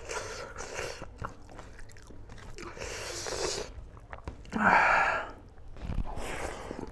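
Close-miked eating sounds: a man chewing mouthfuls of rice and smoked pork curry, with the squish of fingers gathering rice from a steel plate and one louder wet burst about two-thirds through.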